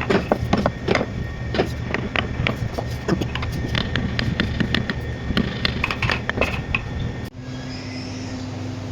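Hand carving tools working wood: quick, irregular sharp taps and knocks, several a second, over a steady low hum. About seven seconds in the tapping stops abruptly, leaving only a steady hum with a low tone.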